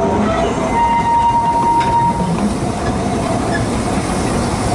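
Steady rumble of a narrow-gauge passenger train running, heard from aboard, with a thin, level squeal for about the first two seconds.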